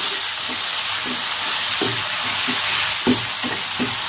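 Onion and spice paste frying in hot oil in a wok, hissing steadily, while a wooden spatula stirs them, scraping the pan about three times a second.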